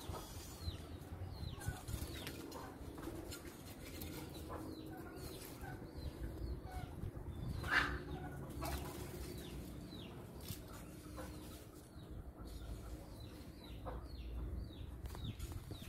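Small birds chirping, many short falling chirps repeated through the whole stretch, over a steady low rumble.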